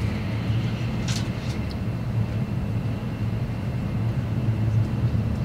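Cabin running noise of an E6 series Shinkansen train travelling at speed: a steady low rumble with a faint hiss above it, and a brief faint click about a second in.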